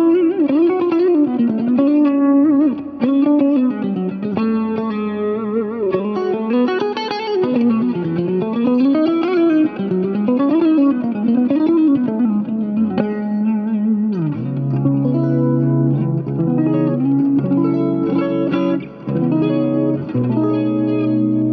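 Electric guitar played through a Dolamo compressor pedal and other effects, clean and compressed without grit: a gliding, wavering single-note melody, then sustained chords from about two-thirds of the way through.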